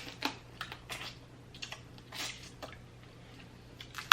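Close-up eating sounds from a seafood boil: an irregular scatter of short wet clicks and squishes as the food is handled, dipped and chewed.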